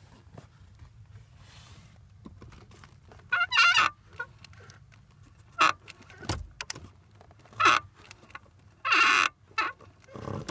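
2009 Subaru WRX clutch pedal assembly squeaking as the pedal is pressed and released, with about half a dozen sharp squeaks at uneven gaps starting a few seconds in. The squeak comes from the pedal assembly moving against its mounting, though the clutch fork could also make it.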